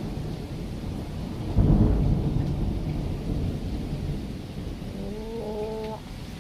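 Thunder rumbling after a nearby lightning strike. The rumble swells again loudly about a second and a half in, then slowly dies away.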